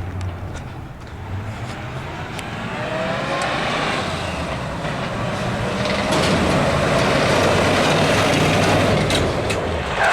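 1982 Chevy C30 truck's 5.7-litre small-block V8 running under way and accelerating, its note rising about three seconds in and growing louder about six seconds in.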